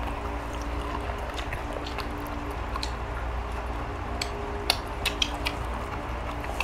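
People chewing boiled chicken. Scattered sharp clicks and mouth smacks come through, several close together just past the middle, over a steady low hum.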